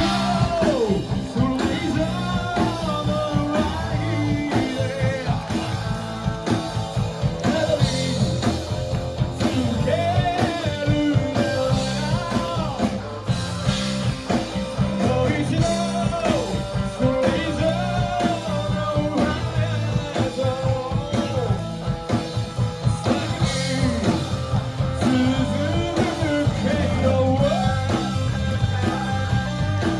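Live rock band playing with electric guitar, drums and a sung melody over a steady beat.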